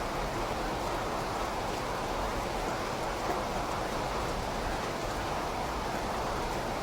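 Steady, continuous rain: an even hiss with no separate drops or breaks.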